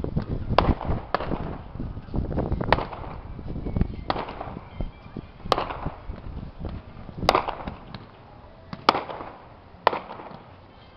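Aerial fireworks shells bursting: a string of sharp bangs, roughly one every one to two seconds, each trailing off in an echo. The bangs are busier and rumble more in the first half and grow sparser toward the end.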